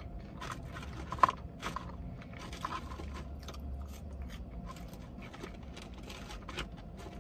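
A person chewing and biting food close to the microphone: irregular soft crunching and smacking, with one sharp click about a second in.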